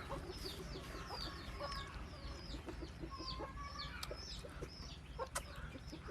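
Chickens and chicks in the background: a run of high, downward-sliding peeps, about two a second, with scattered soft clicks.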